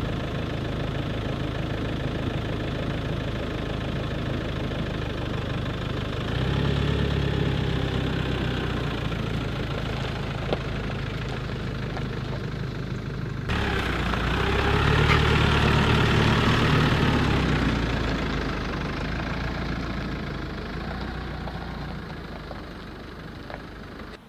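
An engine running steadily with a low hum. The sound shifts abruptly about six and thirteen seconds in, swells briefly, then slowly fades near the end.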